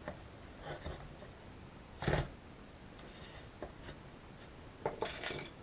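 Workbench handling noises during keyboard desoldering: a single short knock about two seconds in, a couple of faint ticks, then a small cluster of light clicks near the end.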